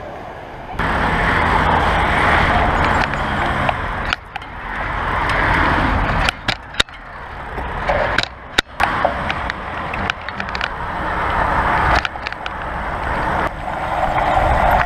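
Bicycle riding noise: wind rushing over the microphone and tyres rolling on a rough surface, swelling and fading, with a few sharp knocks and rattles around the middle.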